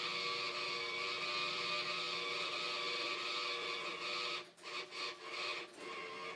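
Chicago Electric 120 V flux-core wire-feed welder running an arc on a lawnmower's differential: a steady sizzling buzz with a whir underneath. In the last two seconds the arc stops and restarts several times in short runs.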